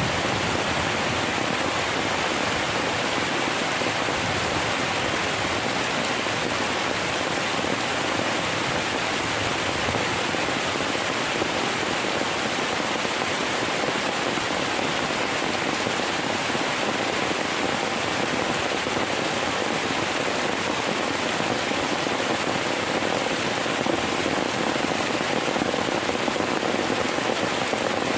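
Heavy rain falling steadily, an even hiss of downpour without a break.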